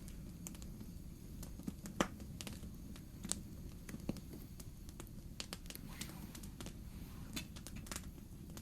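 Campfire crackling: irregular sharp pops and snaps from the burning wood, the loudest about two seconds in, over a steady low rumble.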